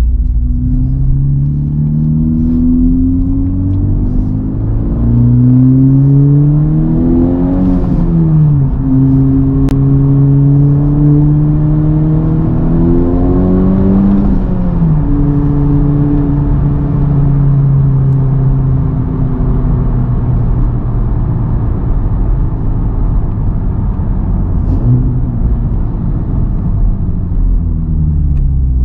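Honda Civic Type R's turbocharged four-cylinder engine, through an AWE Touring cat-back exhaust, pulling under load. In the first half the revs climb and drop back several times, as at upshifts, and then the engine holds a fairly steady note.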